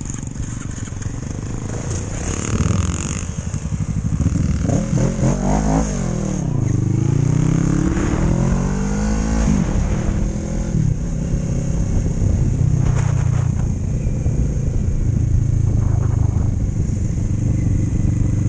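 Motorcycle engine running and accelerating. Its pitch climbs and drops several times from about four to ten seconds in, then it settles into steadier running.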